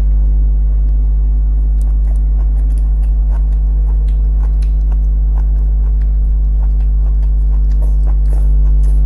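Chewing and mouth sounds from eating rice with spicy fried mustard greens and shrimp by hand: many short, sharp smacks and crunches. A loud, steady low hum runs under it and is the loudest thing throughout.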